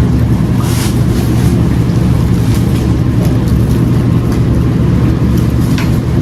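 Steady low rumble of a running car engine, with a few brief rustles.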